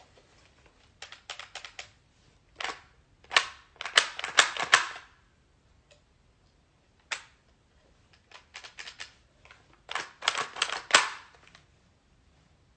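Gas-powered BB gun clicking as its trigger is pulled again and again, single clicks and quick bursts of clicks, without shooting properly. The gas cartridge was not pierced and sealed right, so the gun is not firing.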